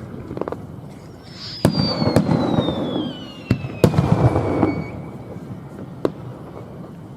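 Aerial fireworks bursting with sharp bangs and crackling. A whistling tone slides steadily down in pitch for about three seconds through the middle, and a last single bang comes about six seconds in.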